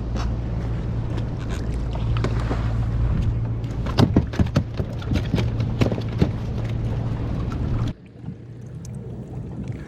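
Heavy wind buffeting the microphone as a steady low rumble, with choppy water slapping and splashing against the hull in irregular sharp spatters from about four seconds in. Near the end the wind rumble drops away suddenly, leaving softer water noise.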